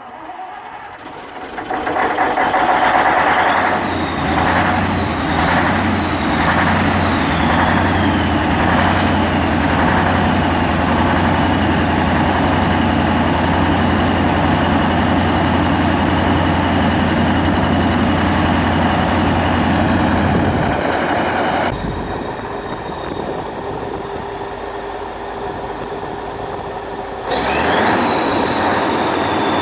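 Scania DS14 14-litre V8 turbo-diesel engine starting from cold and running steadily. In the first several seconds there are whistling tones that slide in pitch. The sound drops abruptly quieter about 22 seconds in and comes back louder a few seconds before the end.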